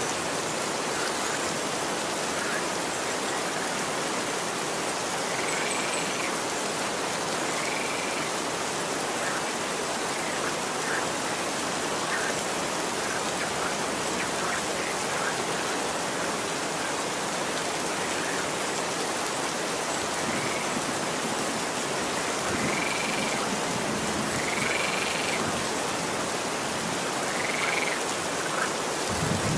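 Steady rain falling, an even hiss throughout. Every few seconds a small animal gives a short high call, with several near the end.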